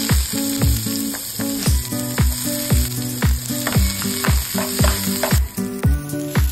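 Sliced onions sizzling in hot oil in a frying pan, with a steady hiss. Background music with a steady beat plays over it.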